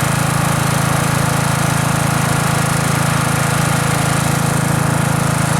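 Engine of a Cub Cadet zero-turn riding mower running at a steady speed, an even hum with no change in pitch.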